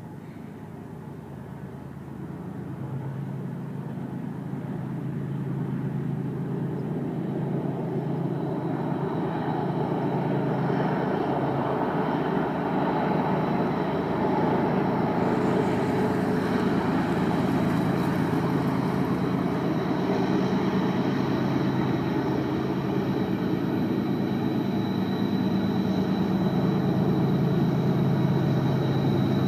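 Diesel locomotives of a BNSF intermodal train running, a steady low engine drone that grows louder over the first dozen seconds as the train approaches and then holds. A faint high steady whine joins about a third of the way in.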